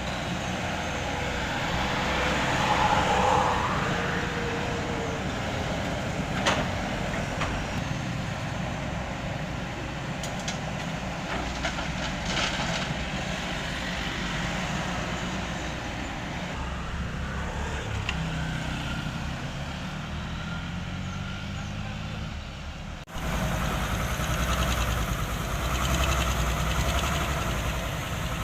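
Heavy diesel construction machinery running, with a sharp knock about six seconds in. The sound cuts abruptly about two-thirds of the way through to another steady engine sound.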